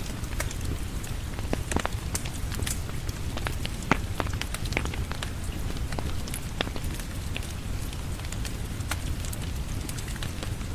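Steady rain falling with a low rumble, mixed with a wood fire crackling and popping in irregular sharp clicks.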